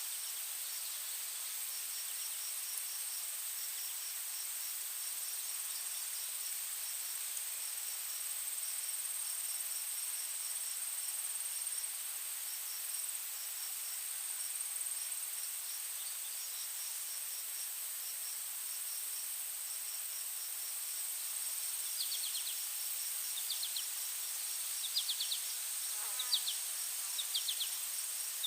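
Insect chorus: a steady high-pitched drone with trains of rapid cricket chirps over it. In the last quarter, a bird's short, repeated chirps join in.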